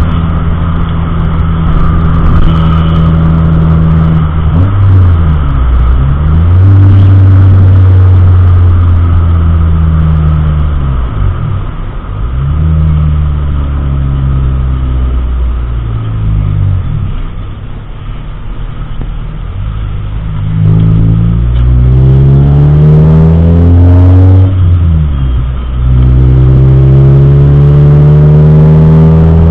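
Car engine running while driving, its pitch rising as it accelerates and dropping sharply at gear changes, about three-quarters of the way through and again shortly after.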